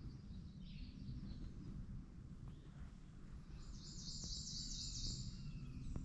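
A songbird singing a quick trill of high, rapidly repeated notes about three and a half seconds in, with fainter bird notes around it, over a low steady rumble.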